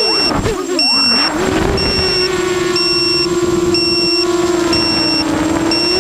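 QAV250 racing quadcopter's electric motors whining at a steady pitch, dipping and wavering briefly about a second in as the throttle changes. A high beeper sounds about once a second throughout, typical of a quadcopter's low-battery alarm.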